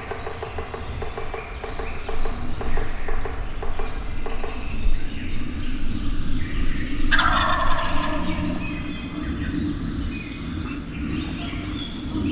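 Wild turkey gobbling: a long rapid rattling gobble in the first few seconds, then a louder gobble about seven seconds in.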